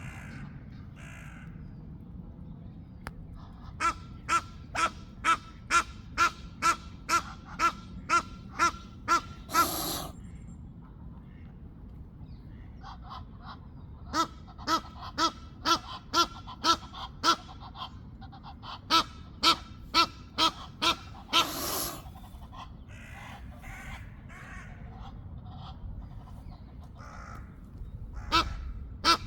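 Egyptian geese calling: long runs of harsh, evenly spaced honks, about two or three a second, in three bouts, two of them ending in a short rasping hiss.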